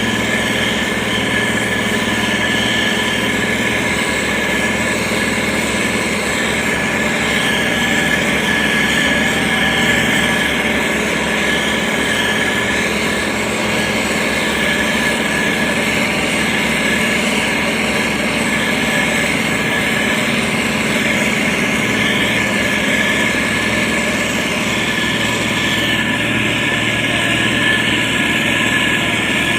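Diesel engine of a heavy road-construction machine running steadily, with a constant high whine over the engine note.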